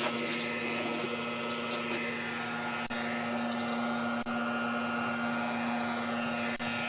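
Honeybees buzzing steadily around a colony nesting inside a masonry wall: a continuous, even hum.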